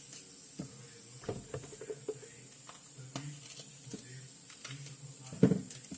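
Knife slicing bell peppers on a cutting board: scattered light taps and clicks, with one louder knock near the end.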